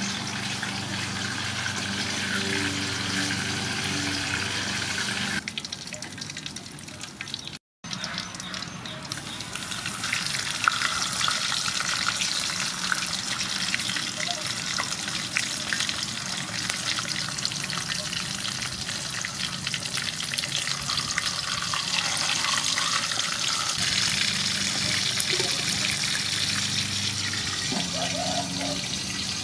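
Fish frying in hot soybean oil in a pan: a steady sizzle with fine crackling pops. It dips and breaks off briefly about eight seconds in, then carries on a little louder.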